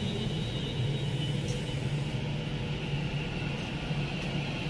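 Avanti West Coast passenger train running past alongside the platform: a steady rumble with a low hum, and a high whine that fades away over the first couple of seconds.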